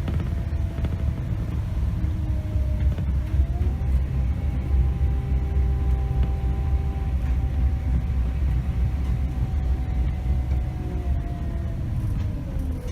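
Scania K270 city bus heard from the driver's seat: a steady low engine and road rumble. Over it runs a drivetrain whine that climbs in pitch a few seconds in, holds steady, then drops near the end.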